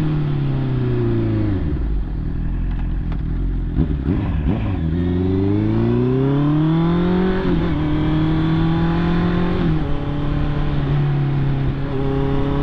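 Honda CB650R's inline-four engine, heard from the rider's seat. The engine note falls as the bike slows, then rises as it accelerates again, with two upshifts in the second half before it settles at a steady pitch.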